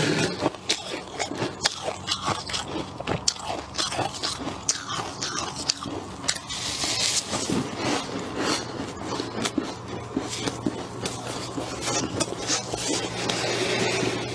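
Freezer frost being bitten and chewed, a rapid run of sharp, irregular crunches.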